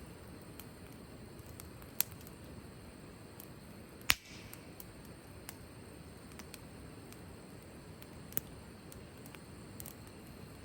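Wood fire crackling in a fire stand: sharp single pops a few seconds apart over a steady low background, the loudest about four seconds in, followed by a brief hiss.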